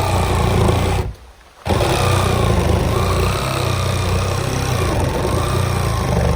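Battery-powered reciprocating saw cutting wood, running in two stretches: it stops about a second in, starts again half a second later and runs for about five seconds more.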